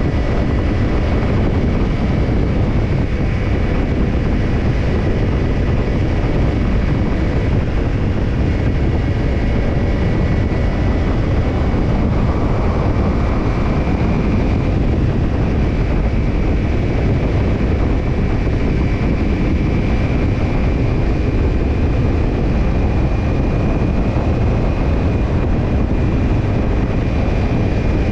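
Kawasaki Ninja 250 parallel-twin engine running through a BEET NASSERT Evolution Type II titanium slip-on muffler while the bike is ridden at a fairly steady pace. A dense low rumble runs throughout, with a faint whine that drifts slowly up and down.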